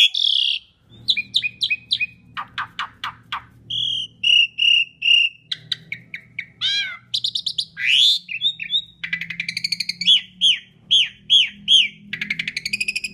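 Asian pied starling (jalak suren) singing a fast, varied song: clear whistled notes, rapid clicking rattles, buzzy notes and slurred calls that swoop up and down, in quick successive phrases.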